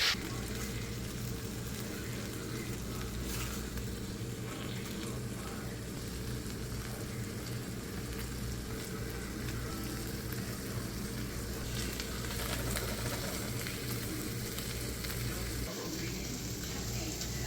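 Food frying with a steady sizzle, with a steady low hum underneath.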